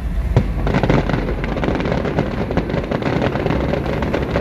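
Fireworks going off: one sharp bang about half a second in, then dense crackling of many small pops.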